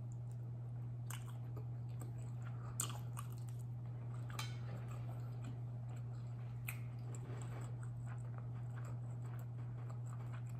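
A woman chewing a forkful of curry with faint wet mouth sounds and scattered soft clicks, over a steady low hum.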